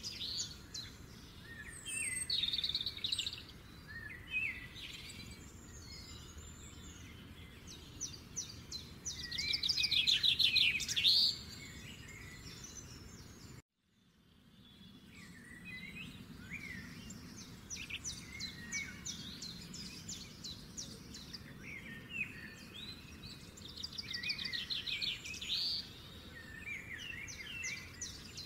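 Small birds chirping and singing, with repeated fast trills and short chirps; the sound cuts out abruptly for a moment about halfway through, then the chirping carries on.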